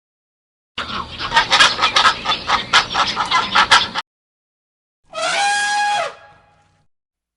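Domestic fowl clucking in a rapid, choppy run of calls for about three seconds. After a short gap comes a single pitched call lasting about a second.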